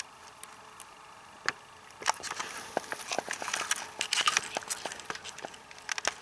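Grass and meadow plants rustling and crackling as they are brushed through, with scattered sharp clicks at first, then a denser crackle of rustling and snapping from about two seconds in.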